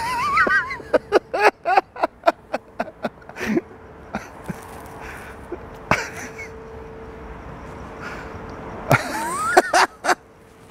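Short wordless vocal bursts from people, one cluster in the first few seconds and another about nine seconds in, over a faint steady hum.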